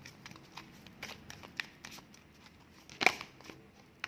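Oracle cards being shuffled and drawn by hand: light papery clicks and rustles, with one louder snap about three seconds in.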